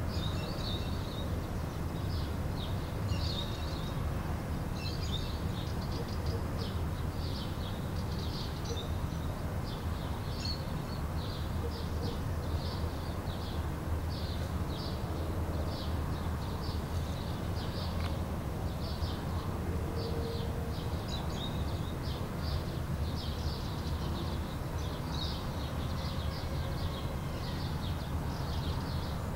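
Small birds chirping, many short high chirps repeating irregularly, over a steady low rumble.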